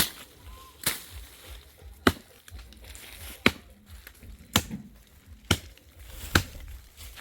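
Repeated chopping blows into a thick, dry tree trunk: seven sharp strikes, roughly one a second.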